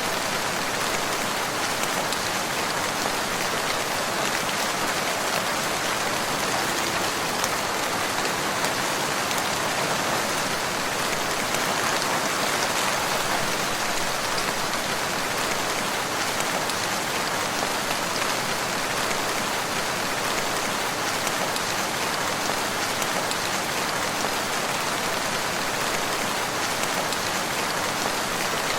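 Steady rain falling, an even hiss of countless drops that holds the same level throughout.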